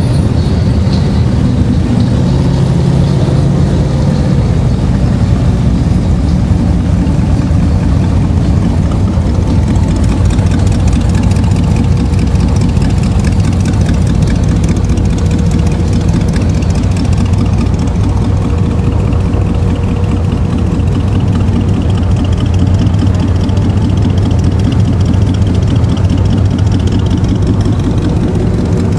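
Vehicle engine idling: a steady, loud, low rumble with no change in pace.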